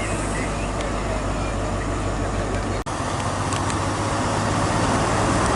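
Diesel engine of a Class 43 InterCity 125 power car running steadily at the platform: a low, even hum under a broad rushing noise. The sound cuts out for an instant nearly three seconds in.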